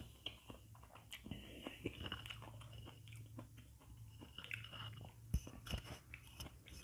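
Close-up chewing of Indomie mi goreng noodles mixed with vegetables: soft wet mouth clicks and small crunches, with one sharper click about five seconds in.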